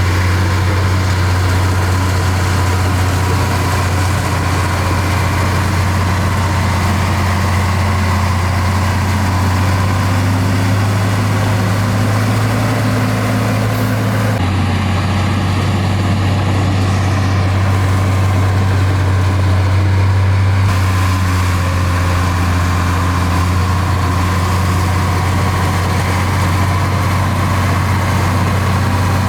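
Diesel engine of heavy earthmoving machinery running steadily with a loud low hum; its tone changes about halfway through.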